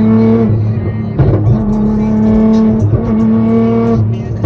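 Sports car exhaust at high, steady revs under throttle. The note breaks off briefly a few times, with sharp cracks at the lifts.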